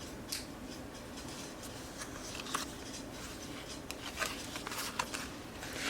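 Paper pages of a handmade accordion junk journal being handled: soft rustling with a few light clicks and taps scattered throughout.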